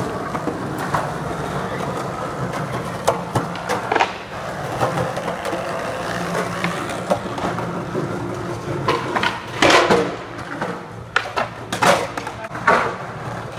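Skateboard wheels rolling with a steady rumble, broken by sharp wooden clacks of the board popping and landing. The louder clacks come in a cluster during the last few seconds.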